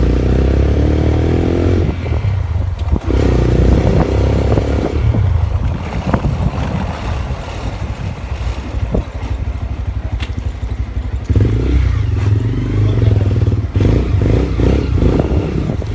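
Motorcycle engine running during a ride, its note rising and falling with the throttle, and quieter for a few seconds midway.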